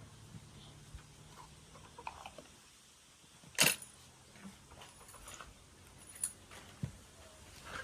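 Handling noises of ingredients and leaves being worked into a clay pot: scattered light clicks and rustles, with one sharp click a little past the middle.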